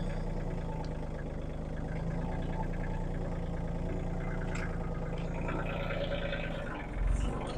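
Engine of a land-clearing machine running steadily at low speed, with a brief louder surge about seven seconds in.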